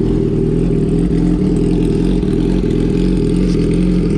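Motorcycle engine idling steadily just after a cold start, heard through an aftermarket SC Project-style slip-on exhaust.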